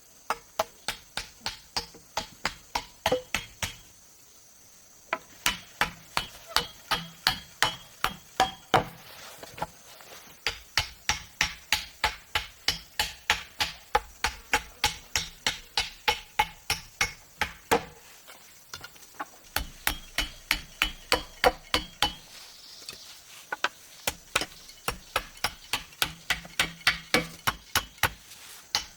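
A hand tool striking wood again and again in quick, evenly paced blows, about three a second. The blows come in runs of several seconds with short pauses between.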